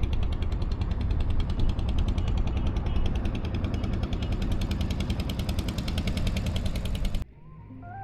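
Motorboat engine running, heard close as a loud, rapid, even pulsing. It cuts off suddenly near the end, and soft guitar music starts.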